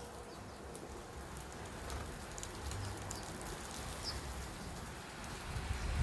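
Outdoor ambience: a low, fluctuating rumble of wind on the microphone, with faint scattered ticks and a brief high bird chirp about four seconds in.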